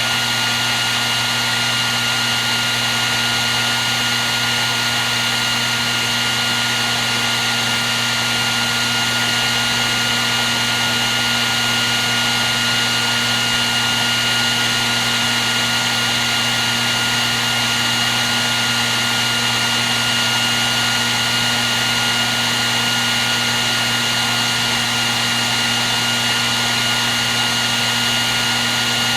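Hair dryer running steadily: an even rush of blown air with a constant high whine from its motor and fan.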